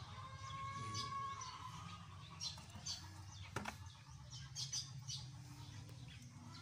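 Small birds chirping in short high calls over a steady low background hum. A long held tone sounds for about the first two seconds, and there is one sharp click a little past halfway.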